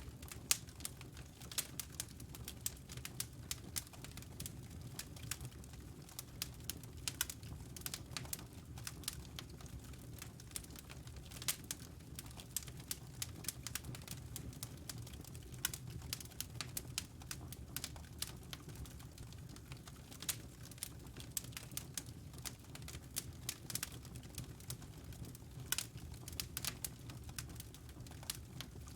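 Wood fire crackling in a fireplace: irregular sharp pops and snaps, a few louder than the rest, over a steady low hum from the burning fire.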